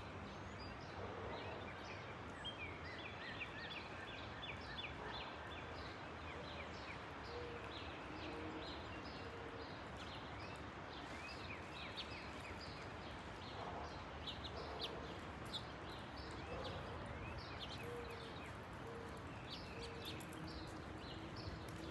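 Small birds chirping and calling repeatedly over a faint, steady background hiss of outdoor air.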